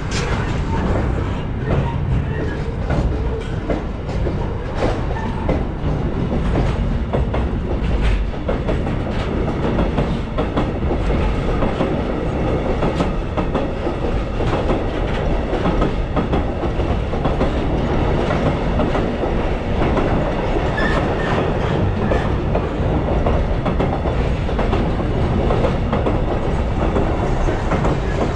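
Freight train rolling past, a steady heavy rumble with the wagon wheels clacking over rail joints.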